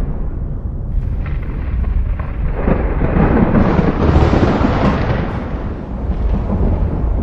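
Thunder rumbling: a deep, continuous rumble that swells into a louder, crackling peak about three seconds in, then eases off.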